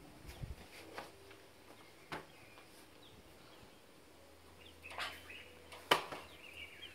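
Faint bird chirps, short high calls that fall in pitch, over a quiet background, with a few sharp clicks or knocks, the loudest about six seconds in.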